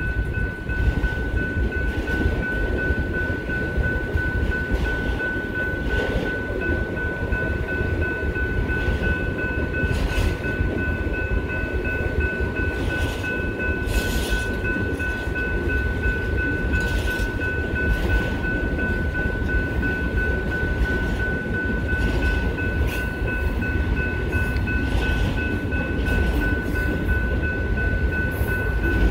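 Autorack freight cars rolling slowly past with a steady low rumble and occasional sharp clanks from the wheels and couplers, while a grade-crossing bell rings steadily on a high tone.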